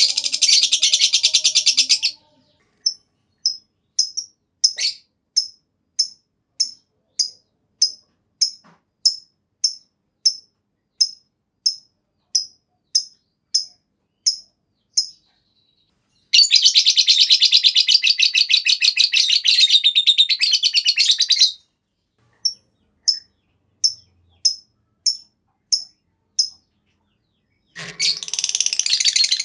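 Lovebird giving its 'ngekek': long bursts of rapid, high trilling chatter, each lasting a few seconds, broken by runs of single sharp chirps at about one and a half a second.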